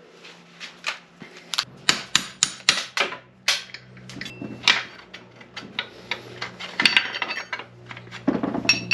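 Irregular series of sharp metal clinks and taps as the shift rail is worked back out of an NP205 transfer case, tools and steel parts knocking together.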